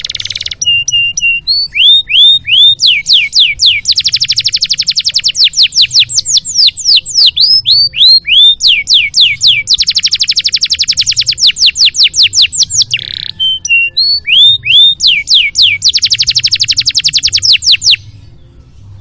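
Canary singing a loud, varied song: long fast trills of rapid repeated notes alternating with runs of downward-sweeping whistles. The song breaks off abruptly near the end, over a faint low hum.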